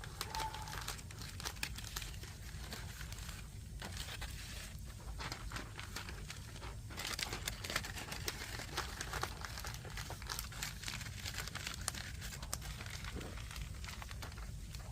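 Burning firewood crackling, with many irregular snaps and pops, busiest in the middle, over a steady low rumble.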